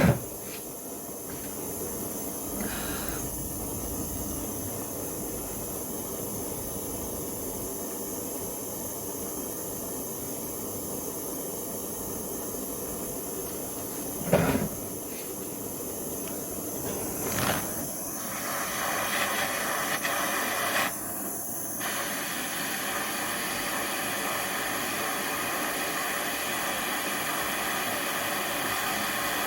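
A gas torch flame hissing steadily while heating steel, broken by a sharp knock at the start and two more about halfway through.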